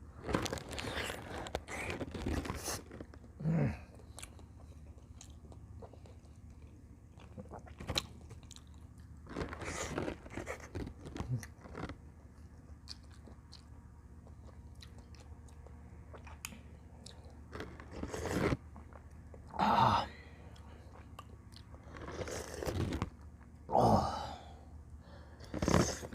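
A person chewing and biting tender boiled camel meat and tendon from bulalo. The eating sounds come in irregular bursts of a second or two with quieter pauses between them, and a few louder mouthfuls later on.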